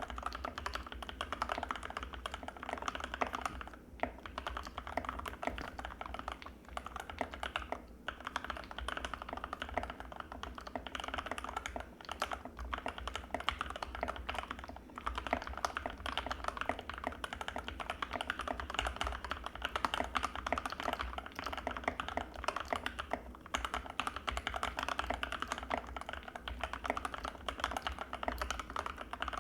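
Continuous fast typing on an Anne Pro 2 mechanical keyboard with Gateron Red linear switches, a dense stream of key clacks with a few brief pauses.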